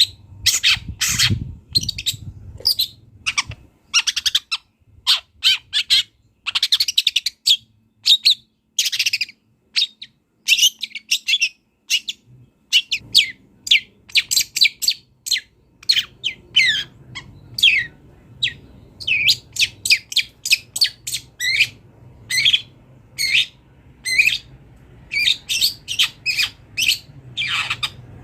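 Long-tailed shrike (cendet) singing a fast, varied song of short chirps and downslurred notes in quick runs with brief pauses, full of phrases mimicked from other birds.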